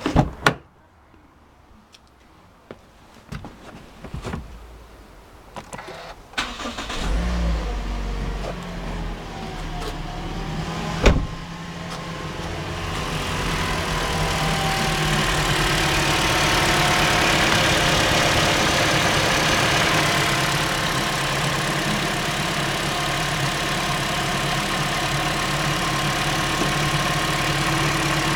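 A few clicks, then a Toyota 3ZR four-cylinder engine starts about seven seconds in and settles into running, with a broad hissing noise from the engine that builds over a few seconds and then holds steady. It is the abnormal noise that the uploader puts down to a broken one-way clutch alternator pulley or an over-tight drive belt, with a worn-out water pump.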